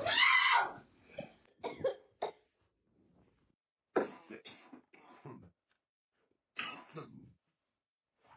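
Coughing in several short bouts: a strong cough at the start, a few short sharp sounds a couple of seconds in, then two more bouts about four and seven seconds in.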